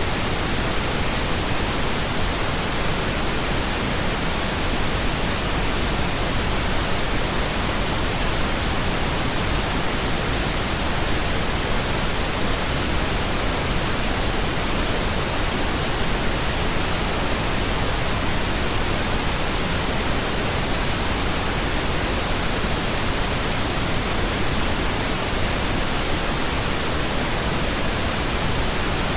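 Steady pink noise: an even, unchanging hiss spread across all pitches, used as a sleep sound.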